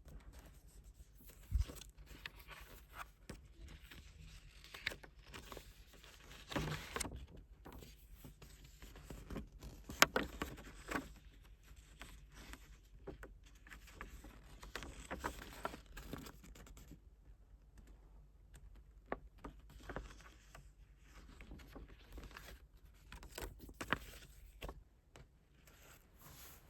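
Hands handling a K-pop photobook album and its paper and plastic contents: irregular rustling, scraping and small clicks, with a sharp tap about a second and a half in and another about ten seconds in.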